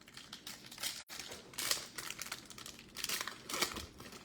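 Trading cards handled and flipped through by hand: a series of papery swishes and crinkles, strongest near the middle and again near the end.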